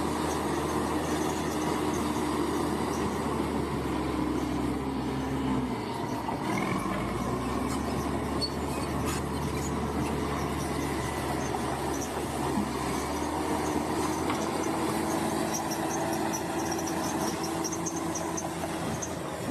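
Bulldozer's diesel engine running steadily while working, with a whining tone that drops away about six seconds in and returns about thirteen seconds in.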